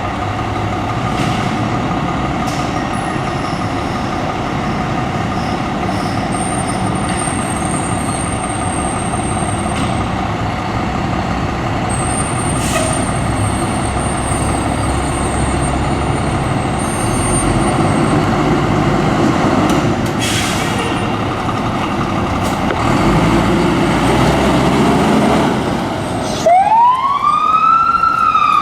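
A fire truck's engine running steadily. Near the end its siren starts, sweeping up in pitch over a second or so and then slowly winding down.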